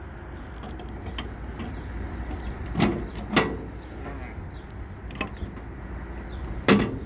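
Three sharp knocks, the first two about half a second apart near the middle and the third near the end, over a steady low rumble.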